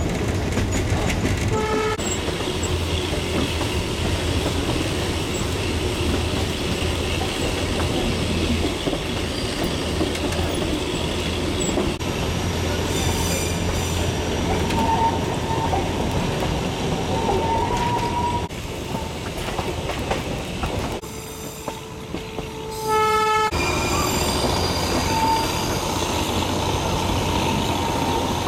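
Darjeeling Himalayan Railway narrow-gauge toy train running, heard from inside a carriage: a steady rumble of wheels on the track, with wheel squeal on the curves. Its horn gives a short toot a couple of seconds in and another about three-quarters of the way through, just after the running goes quieter for a few seconds.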